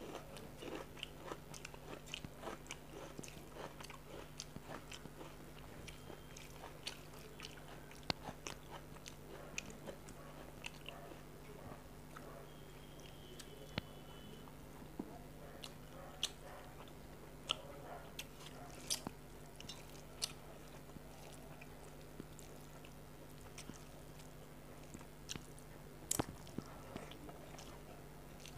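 Close-miked chewing and mouth sounds of a person eating rice mixed with curry by hand, with many scattered sharp clicks. A faint steady hum runs underneath.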